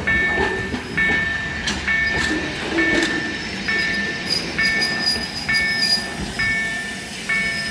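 Freight train passing, its wagons rumbling with a few sharp wheel clacks, under a two-tone electronic beep that repeats about once a second.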